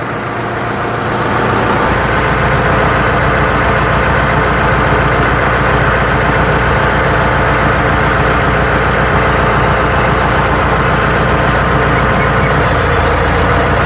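Tractor diesel engine running, loading up and growing louder about two seconds in as the three-point hitch's hydraulic lift raises the mounted log splitter, then holding steady.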